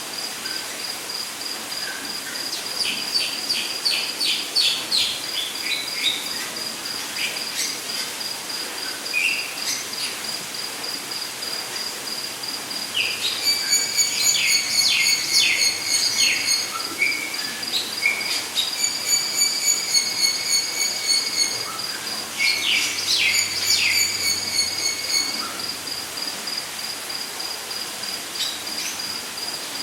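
Rainforest ambience: an insect trilling steadily in a high pulsing tone, with birds calling in several bouts of quick repeated notes, the busiest in the middle.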